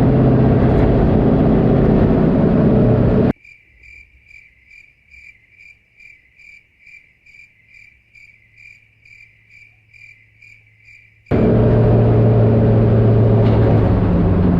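Loud, steady running of a turbocharged LS V8 stock car for about three seconds. The sound then cuts suddenly to a quiet stretch of high, even chirps repeating about twice a second over a faint hum. After about eight seconds it cuts just as suddenly back to the loud engine.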